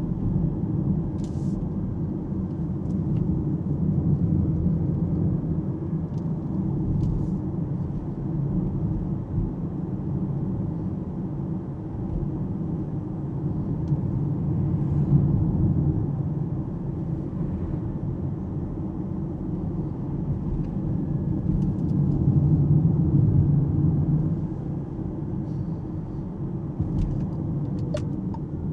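Tyre and road noise from a fully electric Alpine A390 driving at suburban speed: a steady low rumble with no engine note, rising and falling a little with the road surface and speed.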